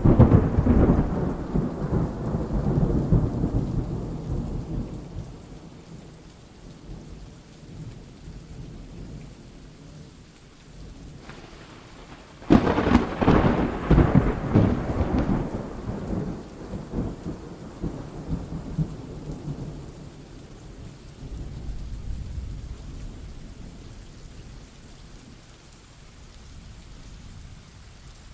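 Thunderstorm: a loud peal of thunder right at the start rumbles away over several seconds, then a second sharp crack about twelve seconds in rolls off the same way, over steady rain.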